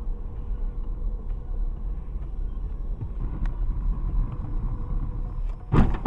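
Steady low rumble of a car driving, heard from a dashcam. A sudden loud noise comes near the end.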